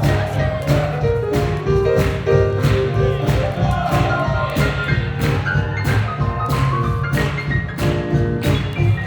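Live swing jazz from a seven-piece band, with held melody notes over a steady, even beat.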